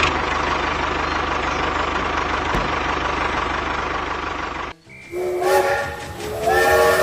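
A steady, loud mechanical running noise with a fast low rumble, which cuts off suddenly about five seconds in. Then a multi-tone horn, like a train horn, sounds in two blasts.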